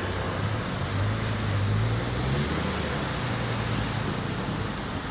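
Steady street traffic noise with a vehicle engine hum that rises slightly in pitch about a second in, then settles.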